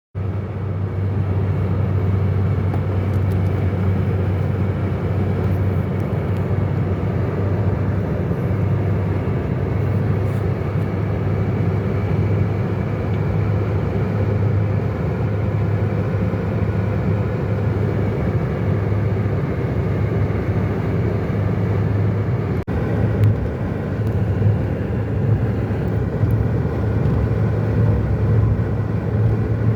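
Steady engine and road noise of a car being driven, a continuous low hum, with a momentary break about three quarters of the way through.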